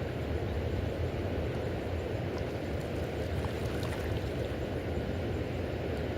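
Steady low rush of the Ohio River's current flowing below a dam, with a few faint ticks in the middle.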